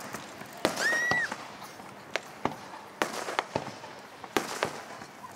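Fireworks display: a string of about ten sharp bangs from shells bursting overhead, each with a trailing echo. A brief high whistle sounds about a second in.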